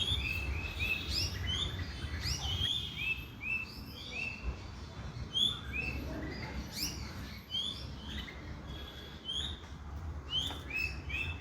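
Small foreign cage birds, escaped and up in the trees, chirping: many short, rising chirps, several birds calling over one another throughout, over a low rumble.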